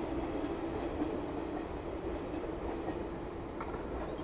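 JR 185 series electric train running past on the track and drawing away, a steady hum over the rolling noise easing off slightly.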